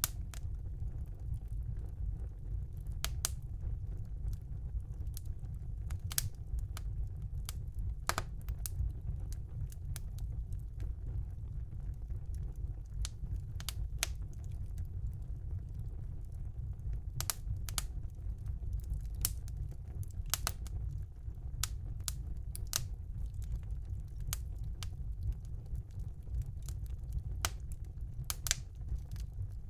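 Wood fire burning in a fireplace: a steady low rumble of the flames with irregular sharp crackles and pops, some in quick little clusters.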